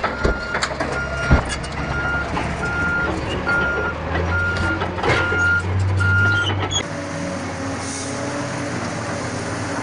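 A heavy vehicle's reversing alarm beeps a single tone about once every 0.8 seconds over a diesel engine running, with scattered knocks and one sharp knock about a second in. The beeping and engine stop abruptly about seven seconds in, giving way to a steady even noise.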